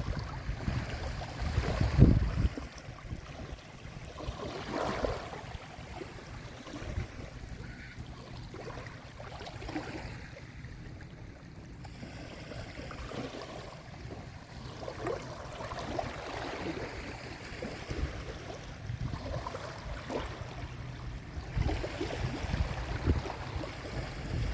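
Sea waves washing onto a shore, with wind on the microphone adding a low rumble that peaks about two seconds in and picks up again near the end.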